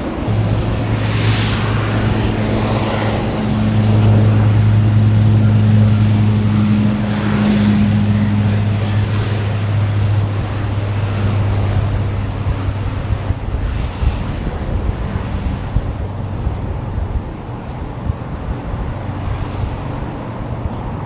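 Steady low engine hum with a higher overtone over a constant rushing noise. It sets in suddenly at the start, is loudest a few seconds in and fades away in the second half.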